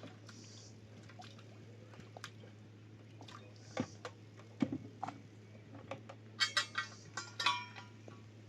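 Scattered light knocks and clicks, then a quick run of ringing metallic clinks near the end, as of hard metal or ceramic objects being handled, over a steady low hum.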